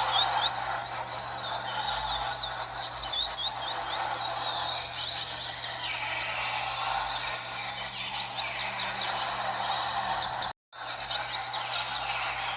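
Many double-collared seedeaters (coleiros) singing at once, a dense tangle of overlapping fast, high chirping phrases, over steady background noise and a low hum. The sound cuts out completely for a split second about ten and a half seconds in.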